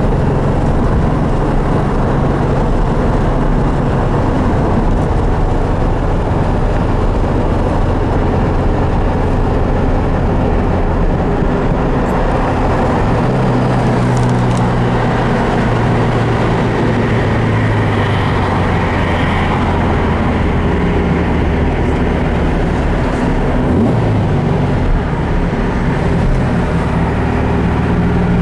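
1965 Porsche 356C's air-cooled 1600 SC flat-four running under way at road speed, heard from inside the cabin over steady road and wind noise; the engine note shifts in pitch a few times.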